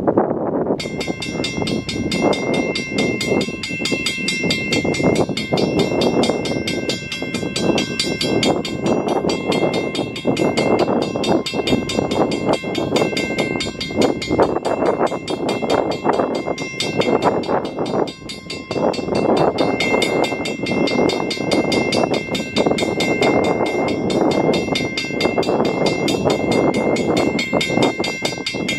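Railroad grade-crossing warning bell ringing rapidly, starting abruptly about a second in, over a steady rushing noise as the train approaches.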